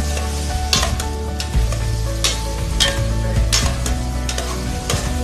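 Chicken pieces sizzling as they brown in a cooking pot, with a utensil scraping and clanking against the pot as they are stirred, a stroke about every half second to second. A steady low hum runs underneath.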